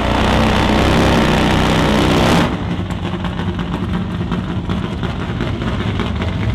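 Drag-racing motorcycle engine at full throttle, very loud for about two and a half seconds, then a little quieter with a rapid pulsing beat.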